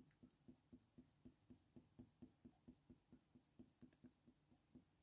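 Faint, rapid strokes of a Faber-Castell Polychromos coloured pencil on hot-press watercolour paper, about four light strokes a second.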